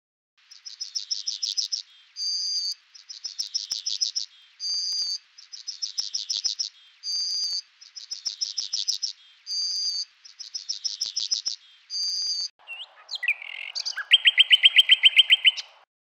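High-pitched bird song in a regular cycle: a rapid falling trill, then a short steady whistled note, repeated five times. Near the end it changes to a different passage of twittering that ends in a fast run of about ten notes a second.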